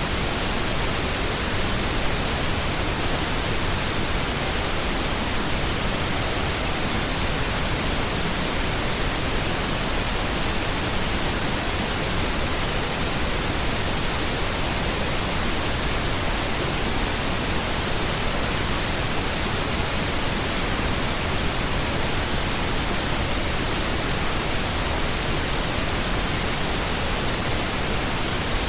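Steady, unchanging pink noise: an even hiss that is fuller in the low end than white noise, likened to the sound of the ocean.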